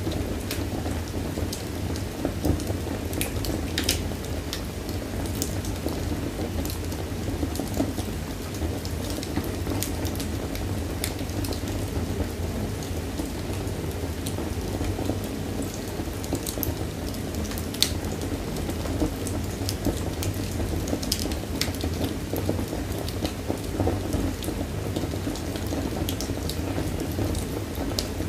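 Fire burning in a fireplace, crackling with scattered irregular pops over a steady low rumble of the flames; one sharper pop about two-thirds of the way through.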